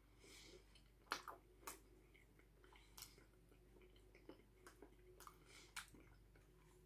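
Faint chewing of a mouthful of burrito with the mouth closed: scattered soft wet clicks and smacks a second or so apart.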